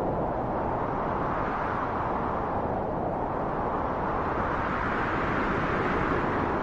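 Steady rushing wind that swells and rises in pitch twice, then eases back.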